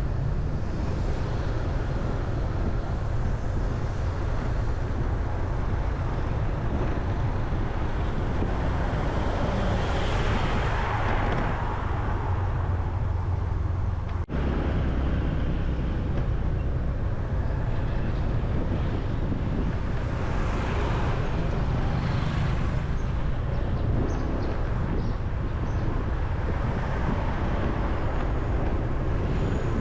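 Road traffic: a steady low rumble of vehicles, with louder vehicles passing about ten seconds in and again about twenty seconds in, and a brief break in the sound about halfway through.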